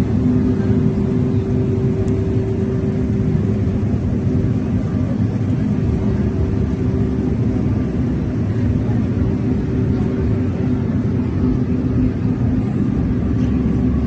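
Steady low rumble of city street traffic, with an even engine-like hum held at one pitch throughout.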